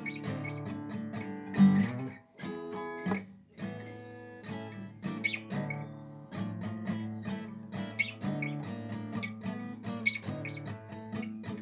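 Acoustic guitar strummed in a rock and roll rhythm, an instrumental passage without singing, with two brief breaks in the strumming about two and three seconds in.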